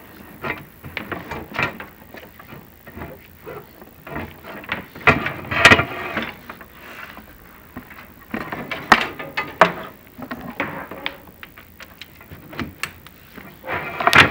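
Chimney inspection camera and its push rods scraping and knocking against the clay flue tiles as the camera is run up the flue, in irregular clatters with a few sharper knocks about five and nine seconds in.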